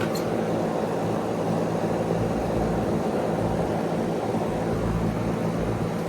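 Goodman GSZB4 2.5-ton heat pump running steadily: a rush of air from the outdoor fan over a low, steady hum.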